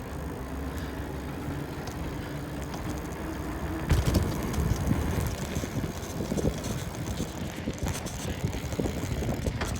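Riding noise of a bicycle heard through a phone in a handlebar holder: wind on the microphone and the holder knocking and rattling on bumps, growing louder and rougher about four seconds in.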